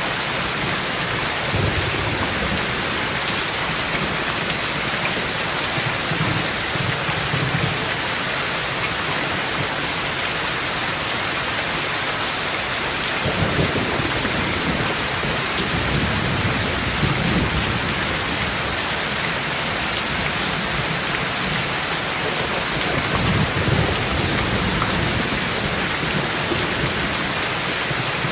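Steady heavy rain falling, with low rumbles of distant thunder rolling in about halfway through and again near the end.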